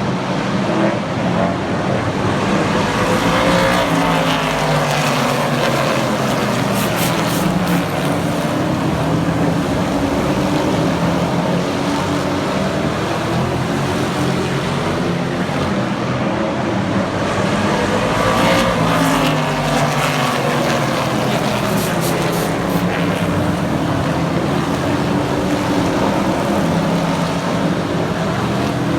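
Super Truck race engines running at racing speed around a short oval. The pack passes close by twice, about 4 s and 19 s in, each time rising in pitch and then falling away.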